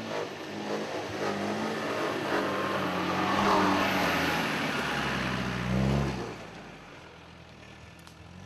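Engine of a 4x4 off-road vehicle revving as it drives past close by on a dirt trail. It is loudest about three to four seconds in, revs briefly near six seconds, then fades as the vehicle moves away.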